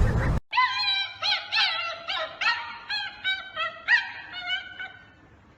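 A puppy whining in a rapid string of high, rising-and-falling cries, which break off near the end.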